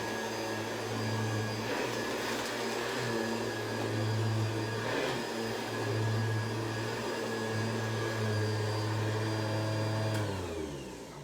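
Hoover Convertible upright vacuum cleaner running steadily, then switched off about ten seconds in, its motor winding down with a falling hum.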